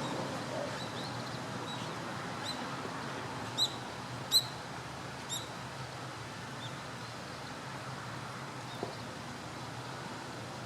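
Common kingfisher giving short, sharp, high-pitched calls. There are about half a dozen in the first half, the loudest about four seconds in, over steady outdoor background noise.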